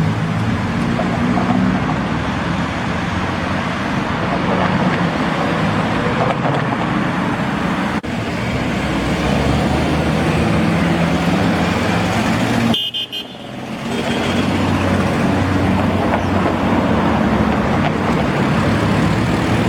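Classic cars driving past in a convoy, their engines running steadily over road noise, with a brief break about two-thirds of the way through.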